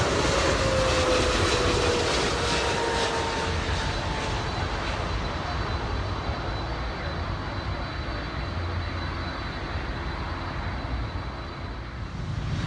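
Jet airliner going past, its engine whine falling in pitch over the first few seconds while the roar slowly fades.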